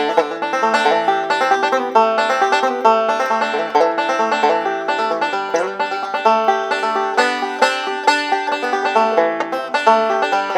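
Five-string banjo, a 1929 Gibson TB-3 converted to five-string, picking a fast bluegrass instrumental in a steady, unbroken stream of rolling notes.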